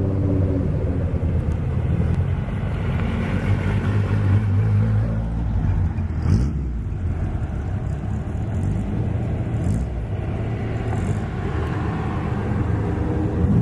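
Car engines running at low speed as cars roll past, a steady low rumble with a short rise in pitch about six seconds in.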